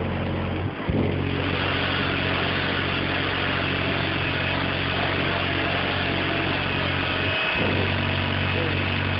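Car audio subwoofer system playing a loud, steady low bass tone, cutting out briefly about a second in and again near the end.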